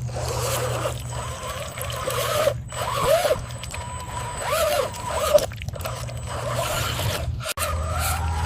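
Radio-controlled dump truck's electric drive motor and gearbox whining, the pitch rising and falling as the throttle changes, over a steady low hum. The sound cuts out briefly three times.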